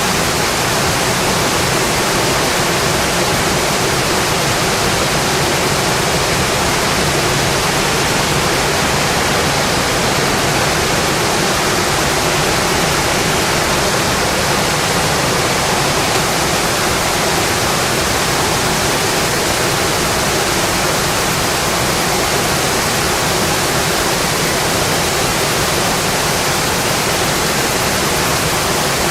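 Steady rainfall, an even hiss without a break.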